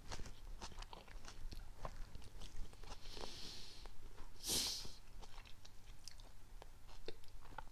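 A person chewing a mouthful of hard, undercooked egg fried rice: many small crunches and clicks. Two short breathy hisses come around three and four and a half seconds in.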